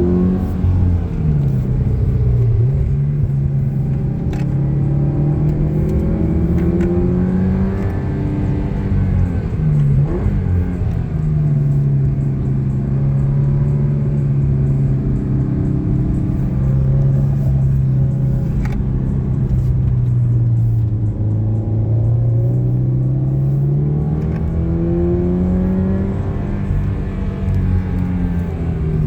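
Car engine heard from inside the cabin, pulling hard through a run of corners: its note climbs slowly and drops back a few times as the driver gets on and off the throttle and changes gear.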